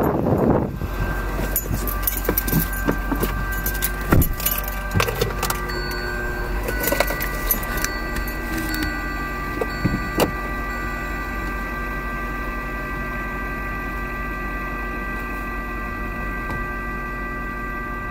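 Sound heard from inside a car cabin with a freight train of hopper cars rolling past outside: a steady low hum and faint steady high tones, with clicks, knocks and a few sharper thumps during the first ten seconds.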